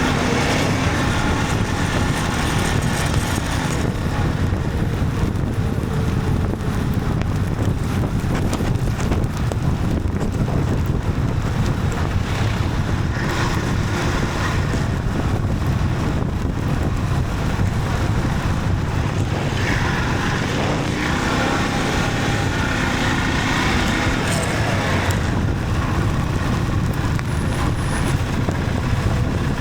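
Motorcycle on the move, its engine running under a steady rush of wind noise on the microphone.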